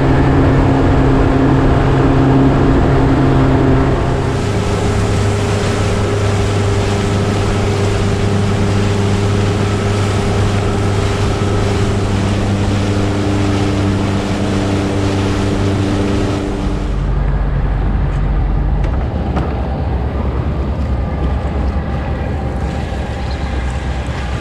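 A motorboat's engine running under way, a steady engine note with a rushing hiss of wind and water. The note shifts about four seconds in, and near seventeen seconds the hiss falls away and the engine note drops.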